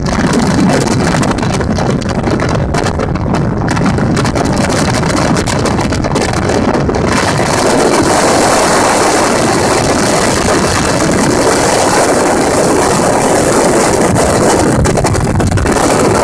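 Motorboat under way, its engine running steadily with wind buffeting the microphone and water rushing past. About seven seconds in, the noise grows louder and brighter.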